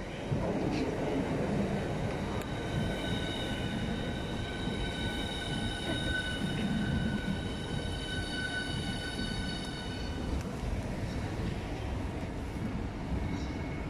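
Southeastern Class 395 Javelin electric multiple unit running past along the platform, its wheels and bogies rumbling. From about three seconds in until about ten seconds, a set of steady high-pitched whining tones rides over the rumble, then stops.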